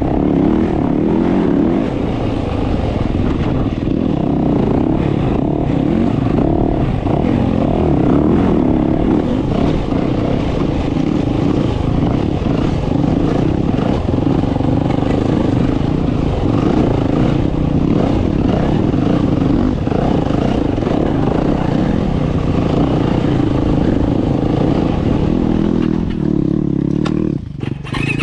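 Dirt bike engine running loud under constantly changing throttle, its pitch rising and falling, with a brief dip in level near the end.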